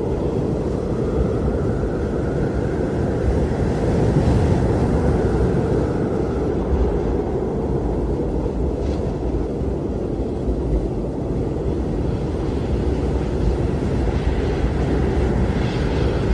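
Blizzard wind blowing in a steady low roar, with a gust that swells into a faint higher howl a few seconds in and dies away.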